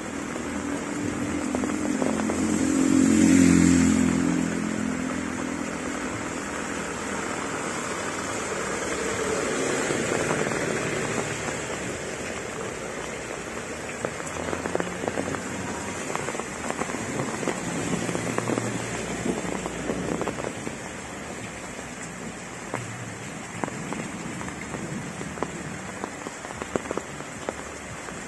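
Heavy rain falling on a wet paved street, with a steady hiss and close drops ticking sharply, more densely in the second half. A motorcycle engine passes close about three seconds in, and another vehicle hisses by on the wet road around ten seconds in.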